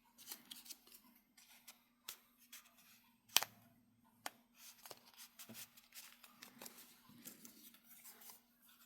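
Card stock being handled: light rustles and scattered small clicks as paper tags are slid into the paper clips' pockets, with one sharper click about three and a half seconds in.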